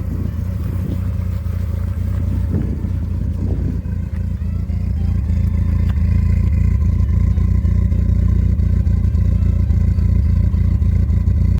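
Triumph Spitfire Mk IV's four-cylinder engine running as the open roadster is driven, a steady low drone that grows louder about halfway through and then holds.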